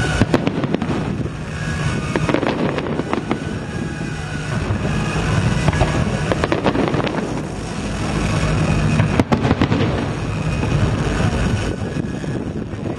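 Fireworks display going off: a dense run of bangs and crackling bursts in quick, irregular succession over a steady low hum.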